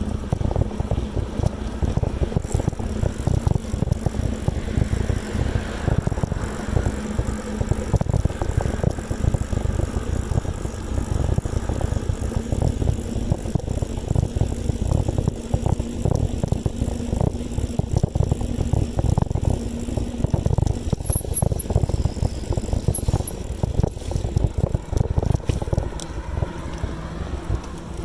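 Ongoing bicycle ride: a constant uneven low rumble of wind buffeting the microphone and road noise, with light rattles.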